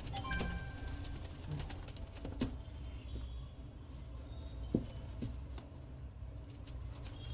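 Sun conure chick giving a few brief, soft chirps right at the start, then a few sharp taps or clicks over a low background hum.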